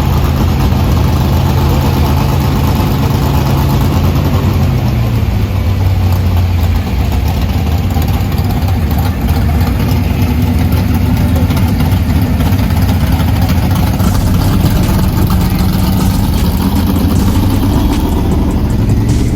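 A car engine idling steadily, its idle dropping slightly about five seconds in.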